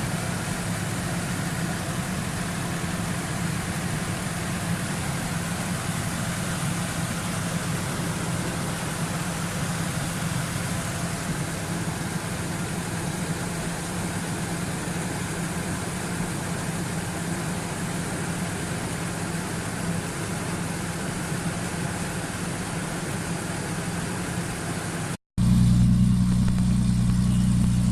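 Car engine idling steadily. About 25 seconds in the sound cuts out for a moment and comes back louder, with a stronger low hum.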